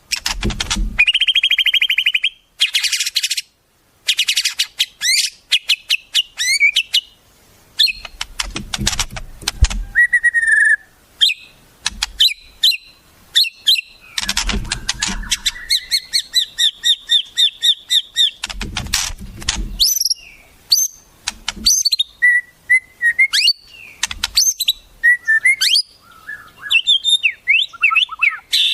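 Wild songbird song: a fast, varied run of high whistles, trills and chirps with short gaps. A low rumble comes in under it a few times.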